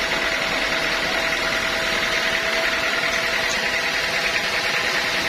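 Sawmill machinery running steadily: an even mechanical drone with a high whine.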